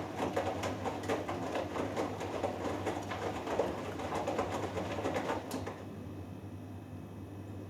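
Hoover Dynamic Next washing machine tumbling a wash load, clothes and water swishing and knocking in the drum over a low steady hum. The drum stops with a click about five and a half seconds in, leaving only the hum.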